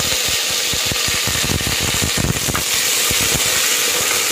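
Small onions and curry leaves frying in hot oil in a clay pot: a loud, steady sizzle thick with small crackles.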